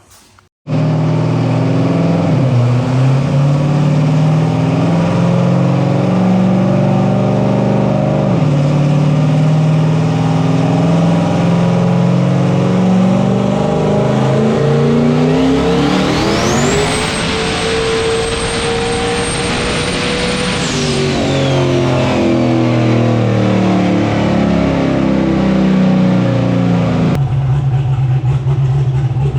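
Turbocharged Gen V LT V8 running on a chassis dyno, then making a pull. About 16 seconds in the revs climb and the turbo's high whine sweeps up and holds for about four seconds. Both then fall back, and the engine settles to a low steady running sound.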